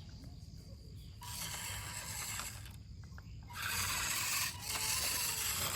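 Small electric motor and plastic gearbox of a remote-control toy vehicle whirring in two runs: a shorter one about a second in, then a louder one starting halfway through.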